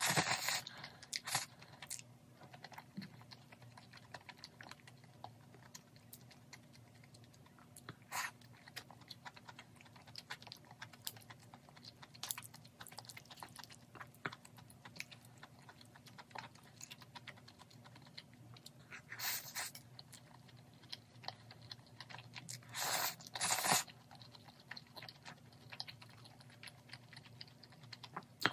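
Close-mic eating sounds: chewing on chewy spicy stir-fried beef intestines (gopchang and makchang) with glass noodles, with many small clicks and a few louder short bursts near the start, about a third of the way in, and twice in the last third.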